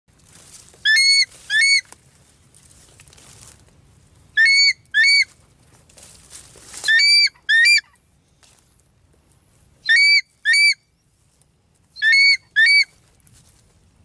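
A bird calling loudly: five pairs of short, high, ringing notes, the pairs about two to three seconds apart. A low rumble runs beneath the first half.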